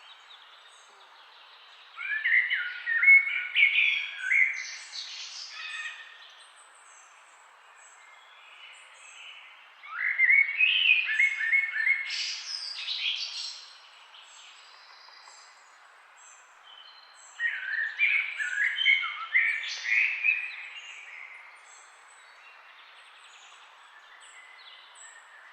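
Songbird singing a long, warbled phrase of three to four seconds, three times about seven or eight seconds apart, with faint high chirps from other birds in between over a steady background hiss.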